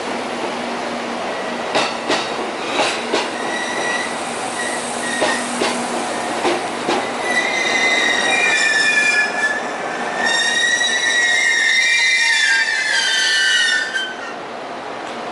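A train pulling into the station. Its wheels clack over the rail joints at first. About halfway through, a loud, high-pitched squeal of wheels and brakes starts as it slows, and it cuts off shortly before the end as the train comes to a stop.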